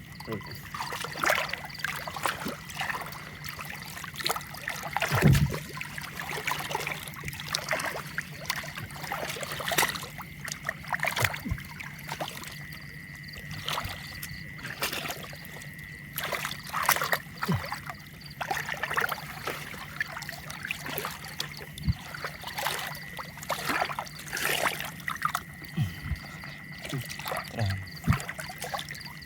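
Canal water splashing and trickling, with many short irregular splashes over a faint steady hum.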